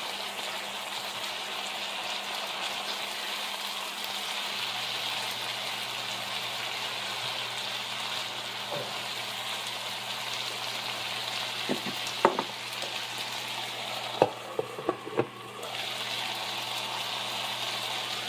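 Onions, peppers, mushrooms and potatoes frying in a skillet with a steady sizzle. About twelve seconds in, and again a couple of seconds later, come a few sharp knocks against the pan, and the sizzle briefly fades.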